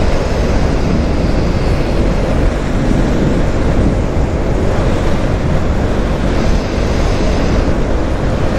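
Steady wind buffeting on the microphone of a motorcycle being ridden at speed, with engine and road noise underneath.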